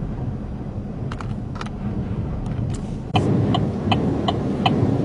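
Strong wind rumbling and buffeting around a car, rising sharply in a sudden gust about three seconds in. From then on a regular tick sounds roughly two to three times a second.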